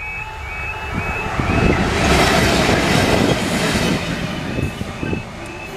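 A train passing over the level crossing close by: a rush of noise builds over the first two seconds and fades after about four, with wheel clicks over the rail joints near the end. The crossing's warbling warning alarm sounds underneath, and near the end a steady hum starts as the barriers begin to rise.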